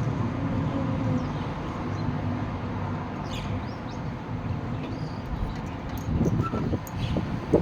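Strong wind rumbling and buffeting the microphone, with low thumps from the gusts near the end. A bird chirps briefly about three seconds in.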